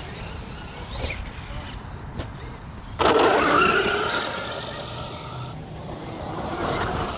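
Brushless RC monster truck driving hard close by: motor whine and tyre noise come in suddenly about three seconds in and fade away over the next couple of seconds.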